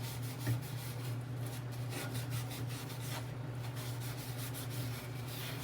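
A sponge scrubbing grimy stainless steel in quick rubbing strokes, working off dirt softened by a bleach bathroom cleaner, over a steady low hum.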